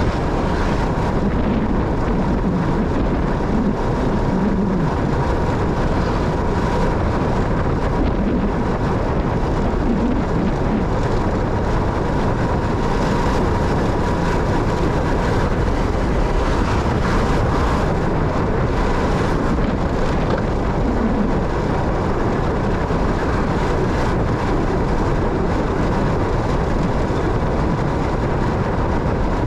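Motorcycle on the move: steady engine and road noise without a break, with a faint, steady high tone running through it.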